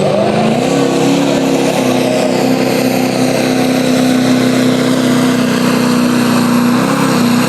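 Turbocharged diesel pickup truck engine running hard at high, steady revs under load while pulling a sled. The pitch steps up slightly about half a second in, then sags briefly and recovers near the end.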